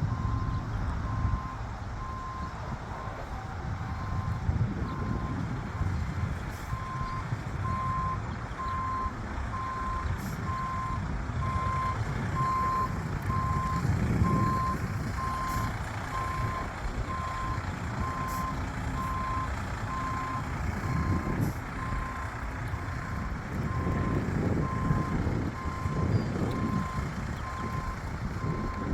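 Tow truck's reverse alarm beeping at a steady pitch, about once a second, over the rumble of the truck's engine as it backs up.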